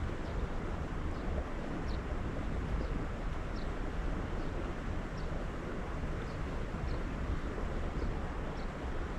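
Steady low rush of wind on the microphone, with a small bird giving short high chirps about once a second.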